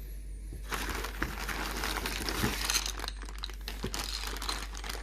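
Packaging crinkling and rustling as it is handled during an unboxing. It starts about a second in, is densest for the next two seconds, then thins to scattered crackles and clicks.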